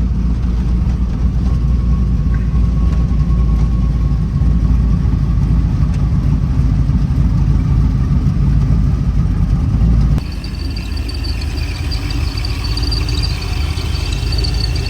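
Car engine and road rumble heard from inside the cabin while cruising, steady and low. About ten seconds in it cuts off abruptly to a quieter running sound with a faint high whine.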